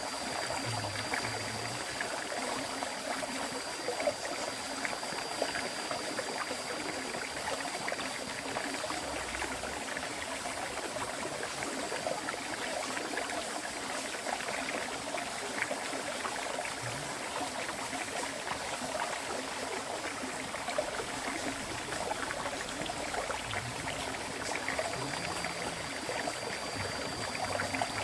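River water flowing steadily over a streambed, an even rushing and babbling with small scattered splashes. A faint, thin, high steady tone sounds over it in the first third and again near the end.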